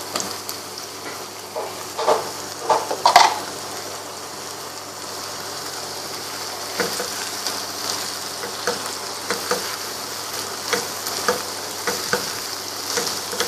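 Onions and ginger-garlic paste frying in oil with a steady sizzle as chopped tomatoes are tipped into the pan, with a few louder bursts about two to three seconds in. From about seven seconds on, a spoon or spatula knocks and scrapes against the pan as the mixture is stirred.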